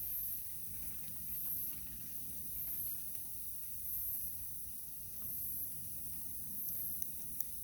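Campfire burning with faint crackles and a couple of sharper pops near the end, over a steady low rumble. A very high-pitched shrill sound pulses about once a second.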